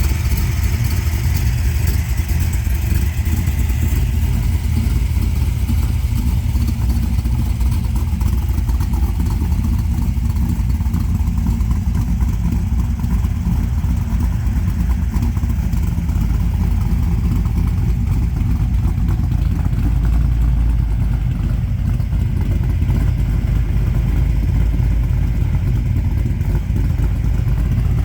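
406-cubic-inch V8 with 10:1 compression running steadily at idle, its exhaust note coming through a Flowmaster HP2 2.5 muffler, deep and even.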